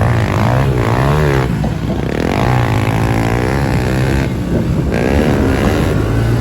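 Motor vehicle engines running, a steady low hum under engine notes that keep sweeping up and down in pitch.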